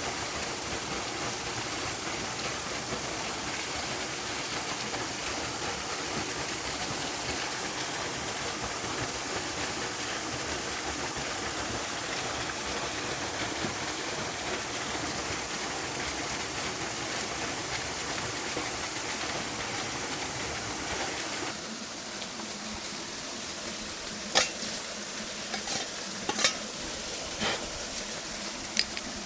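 Food sizzling steadily in a pan for about twenty seconds. It then drops quieter, and a few sharp clinks of metal utensils or cookware follow.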